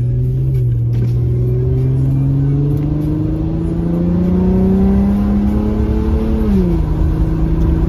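Car engine heard from inside the cabin as the car accelerates, its pitch rising steadily, then dropping quickly near the end at a gear change.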